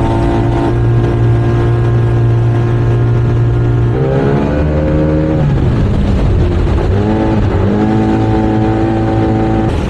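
Small outboard motor running at speed on a small fiberglass boat, with a rushing noise of wind and water under it. About four seconds in the engine note drops as the throttle eases, and about seven seconds in it climbs back to a steady high note.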